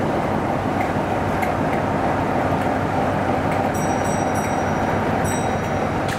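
Train running on the rails: a steady, loud rumble, with a few short high-pitched squeals in the second half.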